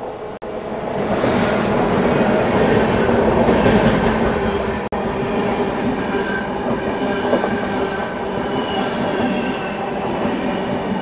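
A long-distance express train passing close by on the next track, heard from a halted train. It grows loud about a second in and stays loud, a dense rumble with steady high squealing tones above it.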